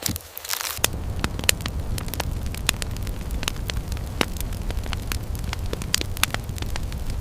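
Wood fire crackling: irregular sharp pops and snaps over a steady low rumble, swelling in about a second in.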